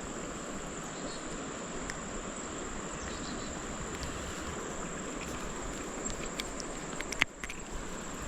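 Insects singing in a steady, unbroken high-pitched drone over a constant background hiss, with a few sharp clicks near the end.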